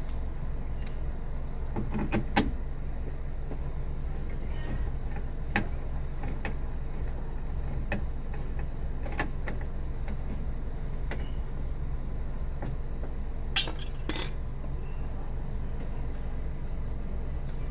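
A steady low hum with scattered sharp clicks and knocks. The loudest knock comes about two and a half seconds in, and a close pair comes near fourteen seconds.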